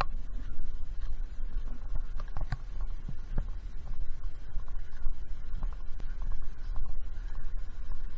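Footsteps and scratching, scraping brush sounds from someone walking a trail, as irregular clicks, over a constant low rumble on the microphone.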